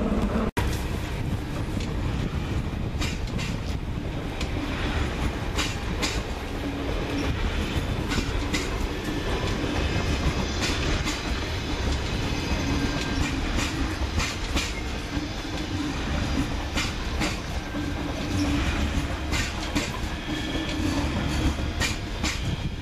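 Red regional electric multiple unit trains rolling slowly over the track points, wheels clicking over rail joints and switches in an uneven clickety-clack over a steady rumble, with a faint motor hum coming and going. The sound drops out for an instant just after the start.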